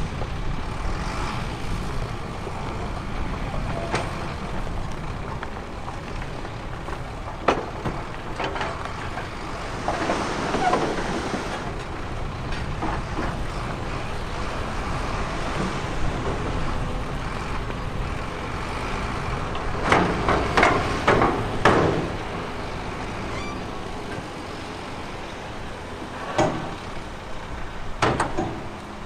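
Heavy earthmoving machinery running with a steady engine rumble, broken by scattered sharp clanks and knocks, with a cluster of loud clanks about two-thirds of the way through.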